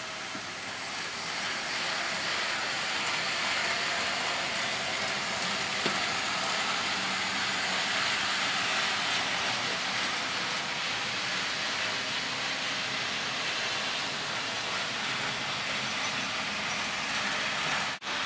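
Model railway trains running on a layout: a steady rolling hiss of wheels on track. The sound drops out briefly near the end.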